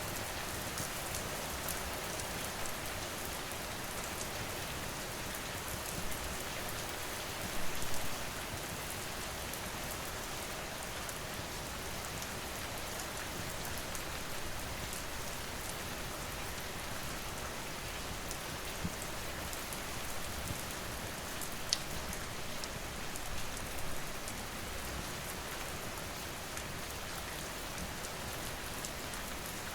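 Steady rain falling, with scattered sharp crackles and pops from a wood fire; the loudest come about 8 seconds in, near 22 seconds and near 24 seconds.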